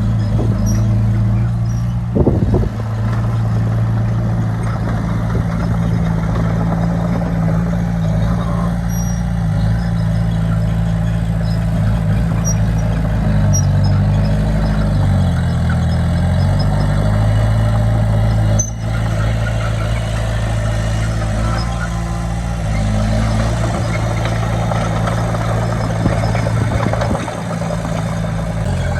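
Heavy diesel engine of earthmoving equipment running steadily, its pitch dipping and coming back up about halfway through. There is a short knock near the start.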